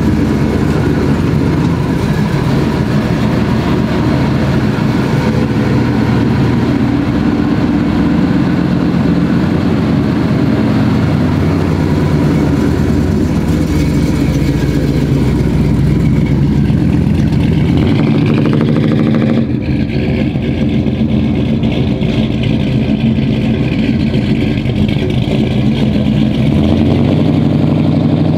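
Chevrolet Impala's old-school V8 running loud, with a rising rev about halfway through; the sound changes abruptly near twenty seconds, then runs on as the car pulls away.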